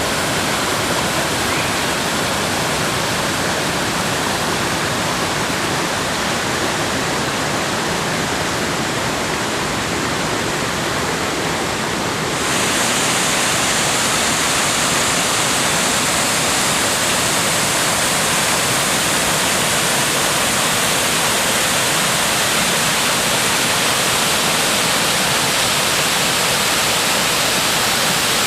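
Kivach waterfall rushing: a steady, dense roar of falling water. About twelve seconds in the sound steps up a little louder and brighter, then holds steady.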